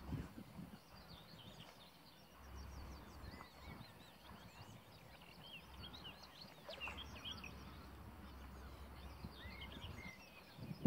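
Small birds chirping and singing faintly in many quick, short notes, over a low rumble of wind on the microphone.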